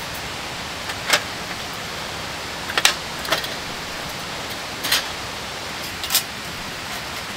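Steady rush of a shallow stream, with about five sharp, light clicks at uneven intervals over it.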